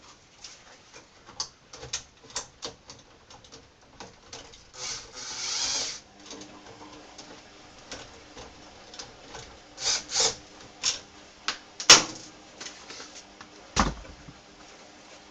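Scattered clicks and knocks of tools and metal parts being handled. There is a short scraping hiss about five seconds in, a sharp knock just before twelve seconds (the loudest sound), and a duller thump about two seconds later.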